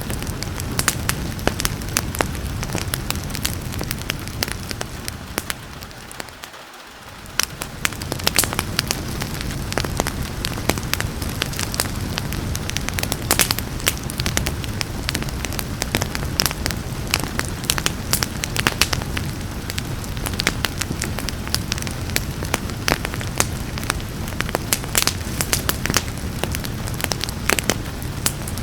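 Wood fire crackling, with frequent sharp pops and snaps over a steady hiss of rain. The whole sound dips briefly and swells back about a quarter of the way in.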